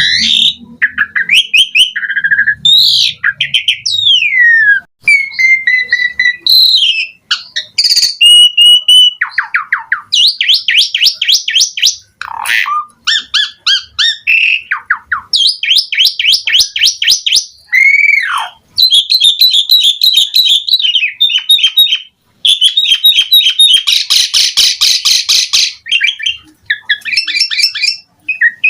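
Asian pied starling singing a long, varied song of gliding whistles, slurred notes and fast rattling trills, with brief pauses between phrases. Near the end comes a harsh, buzzy stretch.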